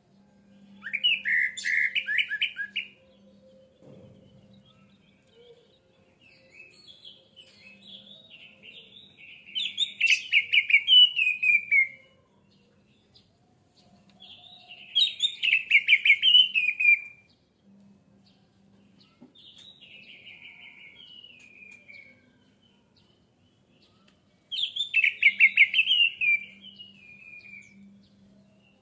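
Orange-headed thrush (anis merah) singing: repeated phrases of rapid notes, each two to three seconds long, with softer twittering in the gaps between them.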